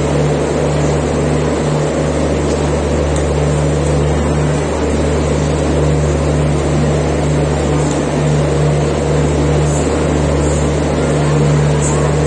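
Indian superfast express train running, heard from on board the coach: a steady, loud rumble with a constant low hum underneath.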